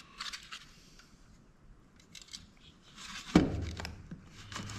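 Hand tools and the plastic and metal parts of a dome security camera being handled during disassembly: short scrapes and clicks, then a sharp knock about three and a half seconds in.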